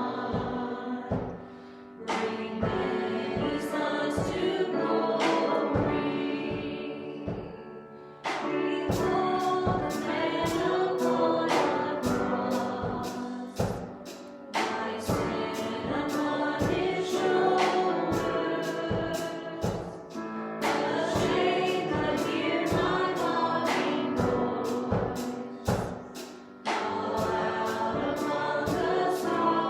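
Church worship song: several voices singing together over instrumental accompaniment with a steady beat, in phrases of about six seconds.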